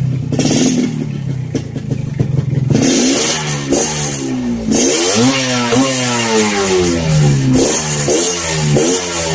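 Yamaha RX-King's two-stroke single-cylinder engine running through an aftermarket B-PAZZ exhaust. It idles for about three seconds, then the throttle is blipped so the revs rise and fall repeatedly.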